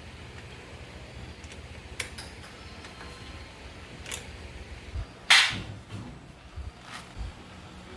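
A few sharp metal knocks and clinks spaced a second or two apart, the loudest a little past halfway, over a low steady background noise. They sound like metal parts being handled or set down during motorcycle restoration work.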